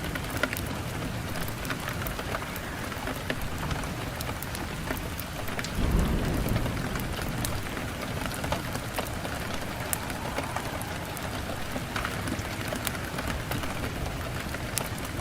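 Wood fire burning in a fireplace, crackling steadily with many scattered sharp pops, and a low rumbling swell of flame about six seconds in.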